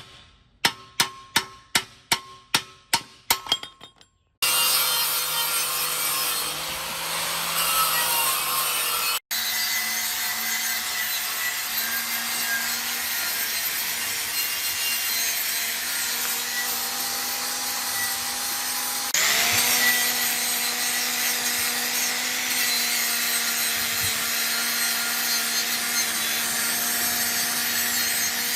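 About ten sharp taps in quick succession, then a handheld electric power tool running steadily with a motor hum under an abrasive rasping, as when grinding or scraping the rusty metal of an old bicycle. The motor's pitch jumps up for a moment about two-thirds of the way through.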